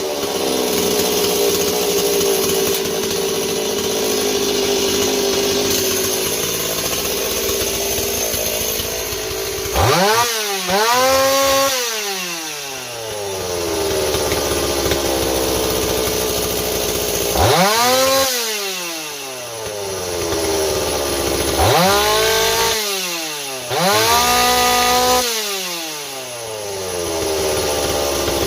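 Stihl 026 two-stroke chainsaw running at idle and revved up to high speed four times, the last two close together, its pitch climbing, holding briefly and dropping back to idle each time.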